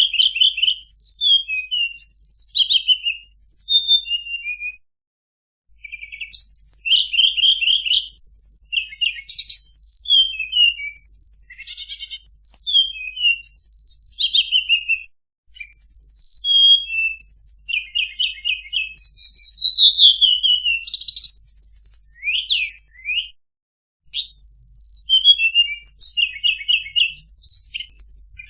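Tledekan songbird singing a rapid, varied song of high chirps, slurred notes and buzzy trills in long phrases, with short breaks about five, fifteen and twenty-three seconds in.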